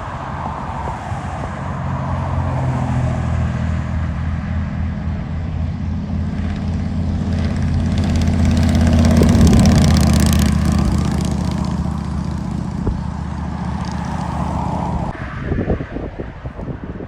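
Motorcycle engines running with a steady low rumble that swells to its loudest about nine seconds in and then eases off. Near the end the engine sound drops away into gusty wind noise.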